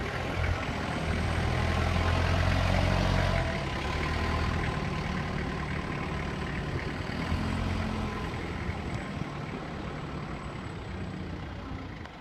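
Isuzu engine of a 3-ton forklift running. It is louder for a couple of seconds from about a second in, then runs steadier.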